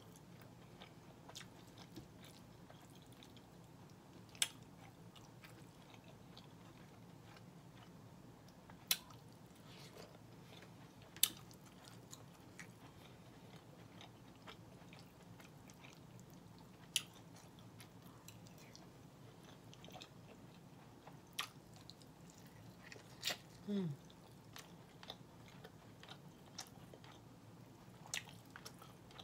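Chewing of red beans and rice and smoked turkey neck, with sharp mouth clicks and smacks every few seconds over a faint steady hum.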